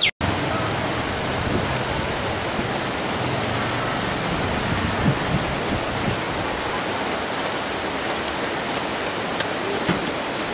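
Steady, even noise of water, after a brief dropout right at the start.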